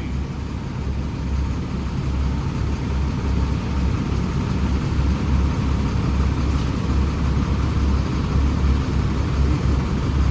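Heavy diesel engine running steadily with a deep low rumble, getting a little louder over the first few seconds.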